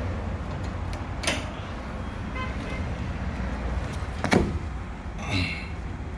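An engine idling with a steady low rumble, with two sharp knocks, the louder one about four seconds in.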